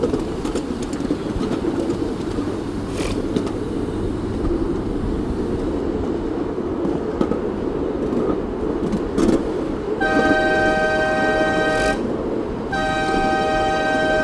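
Steam train running with a steady low rumble and a few light clicks, then sounding its whistle in two long two-note blasts about ten seconds in, the second still going at the end.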